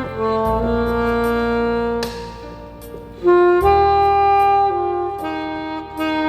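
Saxophone playing a slow melody in long held notes over a backing accompaniment.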